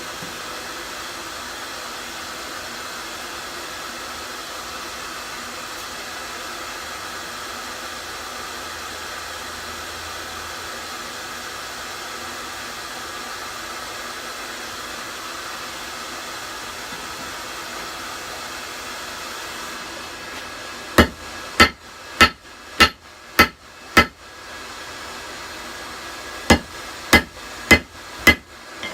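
A hairdryer blows a steady rush of air into a coal forge. About two-thirds of the way in, hammer blows on hot rebar start, in two runs of about half a dozen sharp strikes, roughly two a second, with a short pause between.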